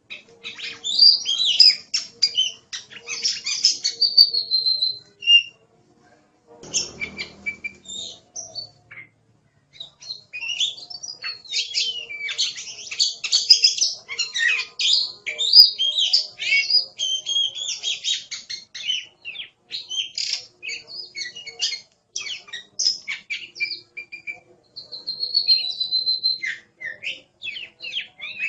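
Oriental magpie-robin singing a fast, varied song of sweeping whistles, trills and chattering notes, with a few long held whistles. The song stops for a few seconds about five seconds in, with a short low rustle near seven seconds, then picks up again at about ten seconds.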